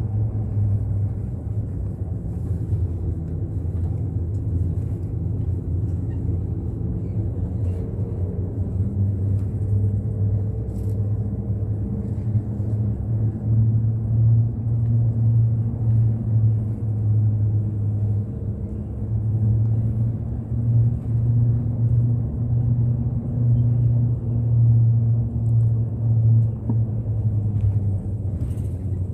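Bus engine and road rumble heard from inside the moving bus: a steady low drone that swells and eases through the second half.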